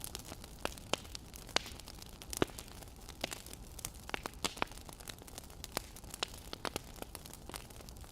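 Wood fire crackling: irregular sharp pops and snaps, a couple a second, over a faint steady hiss.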